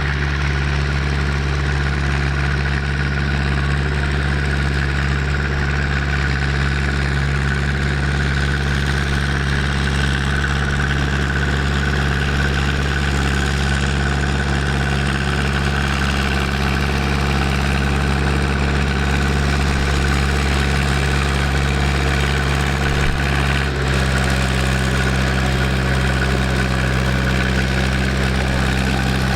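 Tractor engine idling steadily, with a brief dip and a slight change in its tone about three-quarters of the way through.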